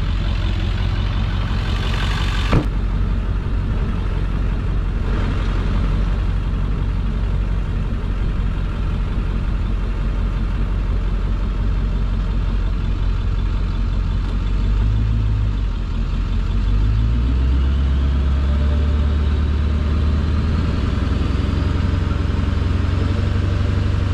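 Motor vehicle engine running steadily, a low rumble whose pitch shifts about two-thirds of the way through, with a single sharp click a few seconds in and a faint rising whine near the end.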